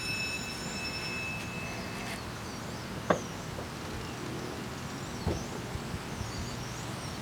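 Steady outdoor background rumble and hiss with faint bird chirps. A high steady tone fades out in the first second and a half, and there is a sharp click about three seconds in and a lighter knock about two seconds later.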